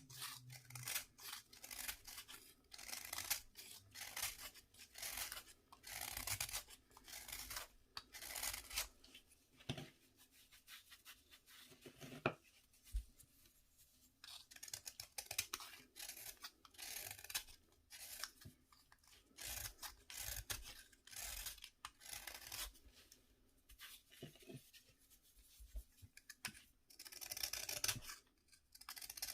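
Bath fizzer being cut and scraped: a long run of repeated dry scraping strokes, one or two a second with short pauses between, and a single sharp click about twelve seconds in.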